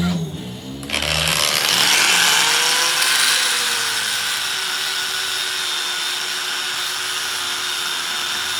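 A power tool grinding steel: a loud, harsh, steady hiss of metal being ground, starting abruptly about a second in, with the motor's tone dipping slightly and then holding steady as it bears on the work.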